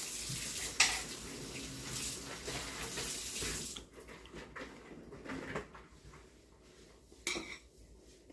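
Kitchen dishware sounds: a steady hiss that cuts off suddenly almost four seconds in, with a sharp clink of dishes or cutlery about a second in and another near the end.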